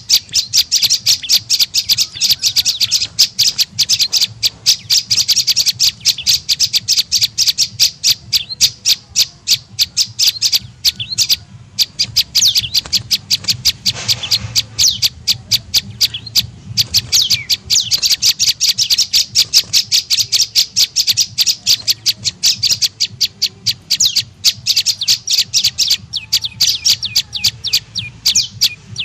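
Prenjak lumut song played as a bird-trapping lure call: a fast, nearly continuous run of high chirps, pausing briefly a couple of times, over a steady low hum.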